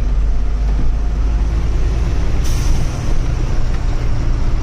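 Truck engine running with a steady low rumble as the truck drives; a short hiss about two and a half seconds in.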